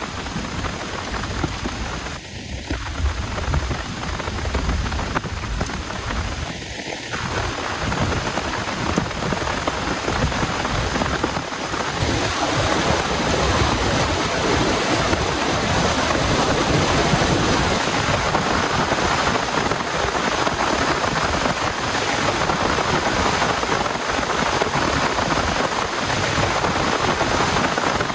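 Heavy rain falling steadily, with a low rumble in the first several seconds; the rain grows heavier about twelve seconds in.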